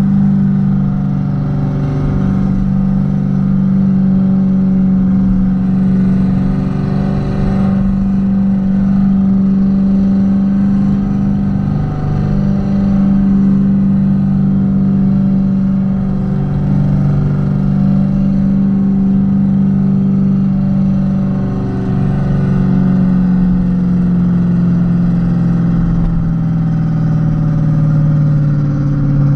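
Renault Kwid 0.8's three-cylinder petrol engine running under way at fairly steady revs, its note rising and dipping a little and easing down near the end.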